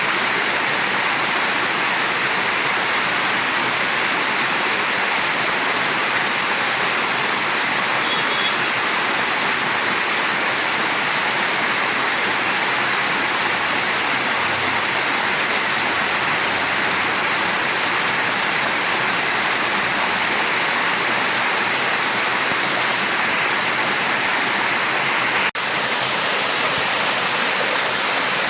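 Mountain stream rushing steadily over rocks, a dense, even water noise, with a split-second dropout near the end.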